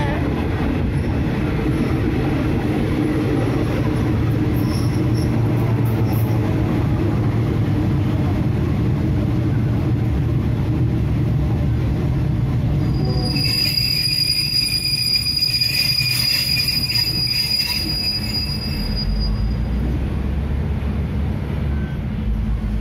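Train running along the track, heard from the driver's cab, with a steady low rumble of engine and wheels on rail. About 13 seconds in, the wheels squeal on the rails in a high, ringing tone for about five seconds, and then the rumble deepens.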